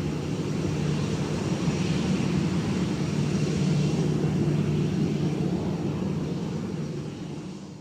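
Jet engines of an Airbus A319 (IAE V2500 turbofans) running steadily with a low hum, swelling slightly in the middle and fading away near the end.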